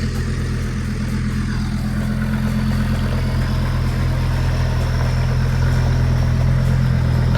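A vehicle engine running steadily at a low, even speed, growing slowly louder, with a faint high whine that climbs gently in pitch.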